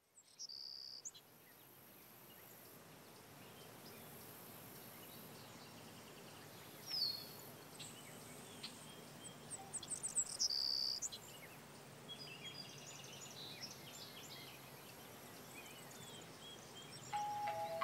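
Faint steady hiss with scattered short, high bird-like chirps, a few of them falling in pitch, and brief clusters of ticks. A music cue comes in near the end.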